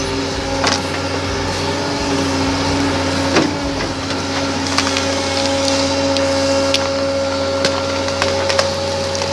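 A heavy machine's engine hums steadily while wood cracks and splinters in sharp snaps several times, the loudest snap about three and a half seconds in.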